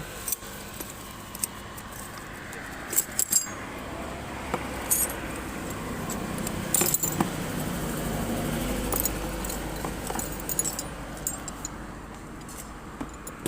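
Metal hand tools clinking and jingling in scattered sharp clicks, as a wrench or socket is sought and worked on a motorcycle part, over a low steady hum of road traffic.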